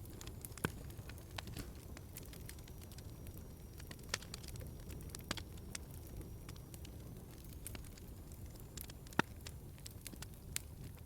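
Wood fire crackling, with irregular sharp pops over a low steady rumble; the loudest pop comes about nine seconds in.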